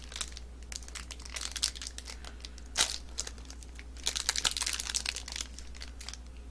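Plastic wrapper of a Nature Valley granola bar crinkling as it is handled and torn open: irregular crackles, with a sharp crackle near the middle and a dense flurry about four to five and a half seconds in.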